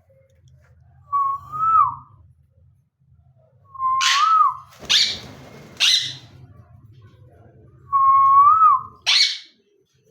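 Pet parrots calling: three clear whistled notes, each held briefly and ending with a little upward flick, and between and after them short, harsh screeches, twice in quick succession about halfway through and once more near the end.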